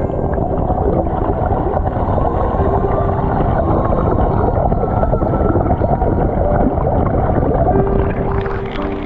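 Waterfall: falling water rushing in a dense, steady roar, heaviest in the low range.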